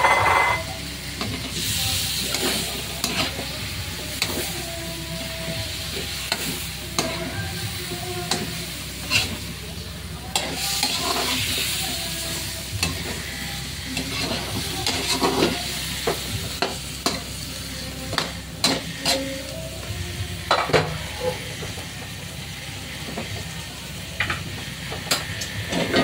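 Chicken and vegetable pieces sizzling in a hot pan while a utensil stirs them, with frequent sharp scrapes and clicks against the pan; the sizzle swells a couple of times.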